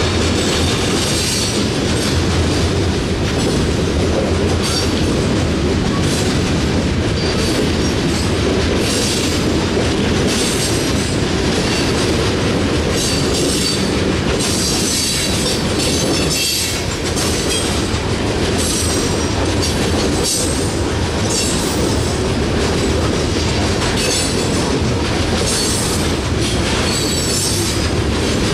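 Coal hopper cars of a freight train rolling past: a steady heavy rumble of steel wheels on rail with clacking over the joints. High-pitched wheel squeal comes and goes every few seconds.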